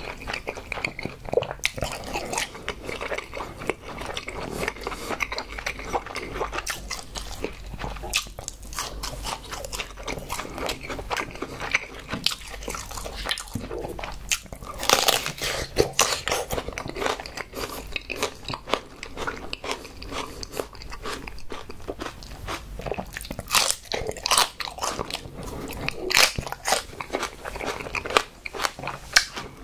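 Close-miked chewing and crunching of raw aloe vera leaf, wet and crisp, with sharper crunchy bites about halfway through and again near the end.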